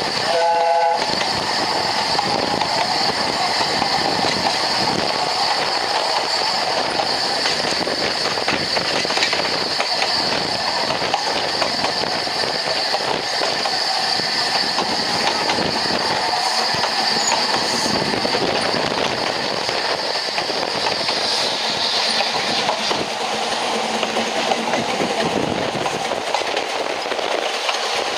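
Narrow-gauge steam train running along the line, heard from an open carriage window: steady rumble and clatter of the carriage wheels over the rails. A short whistle sounds right at the start.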